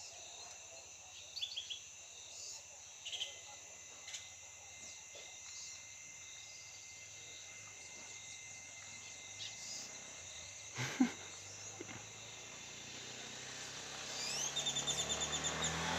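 Wild birds calling over a steady high insect drone: short chirps here and there, a single knock about eleven seconds in, and near the end a fast run of repeated call notes that grows louder.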